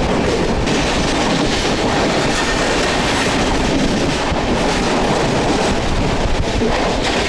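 Mumbai suburban commuter train running along the track, heard from inside the carriage: a steady loud rumble and rattle of the wheels.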